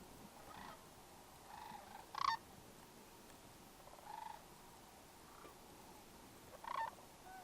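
Sandhill cranes calling: a handful of rolling, rattling calls, the loudest about two seconds in and another near the end.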